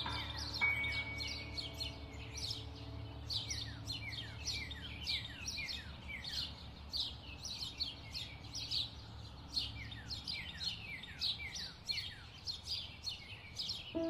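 Birds chirping: a rapid run of short chirps that slide downward, several a second, over a steady low hum. The last notes of instrumental music fade out in the first couple of seconds.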